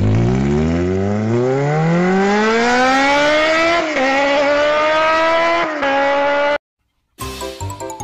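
A car engine revving, its pitch climbing steadily for about six seconds with two short dips like gear changes, then cutting off abruptly. Music starts near the end.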